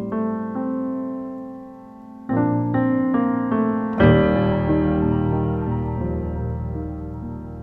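Background piano music: slow chords left to ring and fade, with a fuller, louder chord struck about four seconds in.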